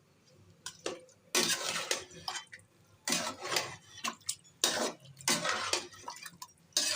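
A spoon scraping and clinking against a bowl and cooking pot in a run of short scrapes as whipped yogurt is spooned into the chicken.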